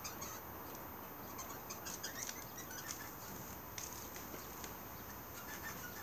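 Small aviary birds chirping: many short, high-pitched chirps scattered through, with light clicks.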